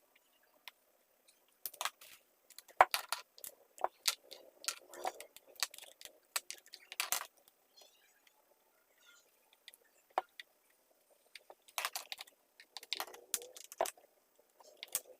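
Irregular sharp clicks and clatters of hard parts and tools being handled while a mini chainsaw is cleaned, with a quieter gap in the middle.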